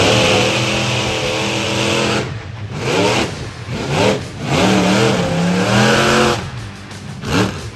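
Monster truck engines revving hard, the pitch climbing and falling off in several surges with short drops between.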